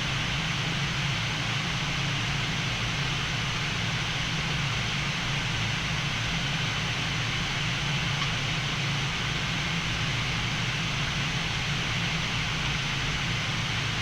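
Steady flight-deck noise of a Boeing 787-9 on final approach: an even rush of air with a low hum underneath, unchanging throughout.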